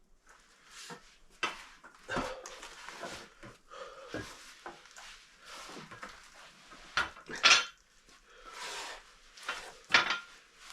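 Weight plates and a barbell being handled, clinking and knocking irregularly, with several sharper clanks.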